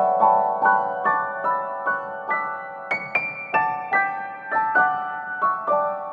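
Background piano music: a gentle melody of single struck notes, about two or three a second.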